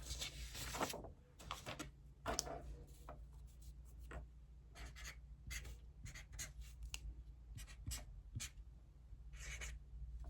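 Handwriting on paper: a string of short scratching strokes with brief pauses, a few longer strokes among them, over a steady low hum.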